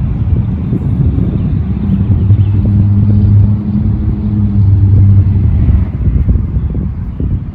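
Car engine running with a low, steady hum that swells for a few seconds in the middle and then eases off.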